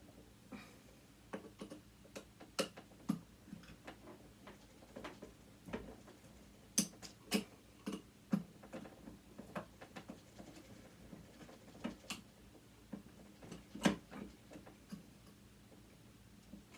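Irregular light clicks and taps of a screwdriver and small metal parts being handled while a sewing machine motor is dismantled, with a few sharper knocks among them.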